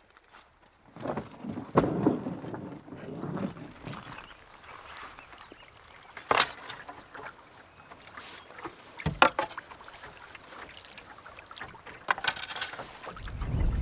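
Canoe paddle strokes splashing and dripping in the water at an irregular pace, with a few sharp knocks, as of the paddle striking the canoe's hull.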